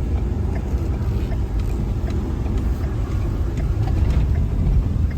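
A car on the move: a steady low rumble of road and engine noise, with a few faint ticks.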